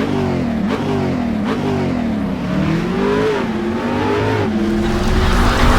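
Car engine revving, its pitch falling and rising several times before it settles to a steady note near the end.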